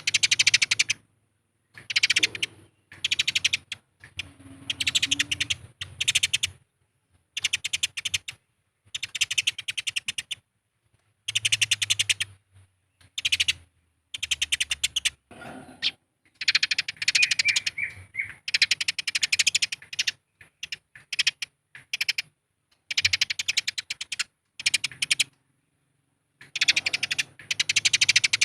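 Eurasian tree sparrows chattering aggressively in a fight: rapid, dense strings of harsh chirps coming in bursts of a second or so with short pauses between.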